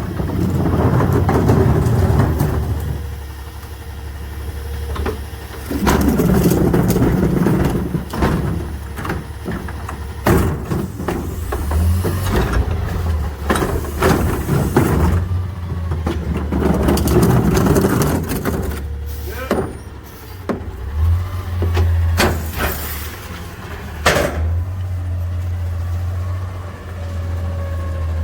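McNeilus rear-loader garbage truck running, its engine stepping up in speed at times as the hydraulic packer cycles, with repeated clanks and knocks of recyclables being compacted in the hopper.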